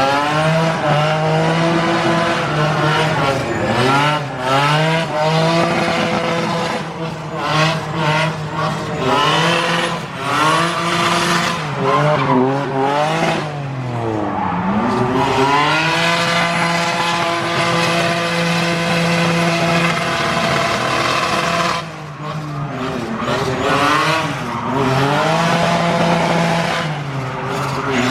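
Drift car's engine revving high, held steady for long stretches and dipping then climbing again several times, with tyres squealing as the car drifts.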